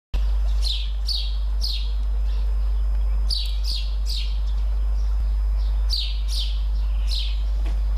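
A small bird calling: groups of three or four quick, high notes that slide downward, repeated every couple of seconds, over a steady low hum.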